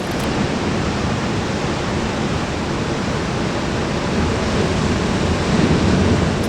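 Steady, loud rushing noise with no distinct events, swelling slightly near the end.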